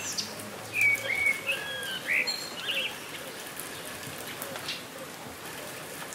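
Steady rain falling, with small drops ticking throughout. A bird sings a few whistled, up-and-down phrases in the first three seconds, then only the rain goes on.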